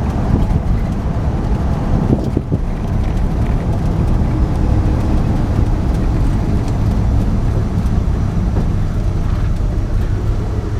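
A 1976 Ford truck driving: its engine runs with a steady low drone under road and wind noise, dipping briefly about two and a half seconds in.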